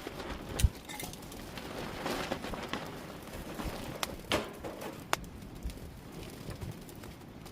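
Outdoor cooking sounds: a few sharp clicks and knocks, the loudest a thump about half a second in, over a faint steady hiss.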